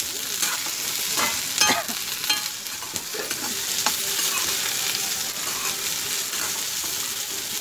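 Sliced okra sizzling in hot oil in a metal kadhai while a spatula stirs it, scraping and clinking against the pan now and then over a steady frying hiss.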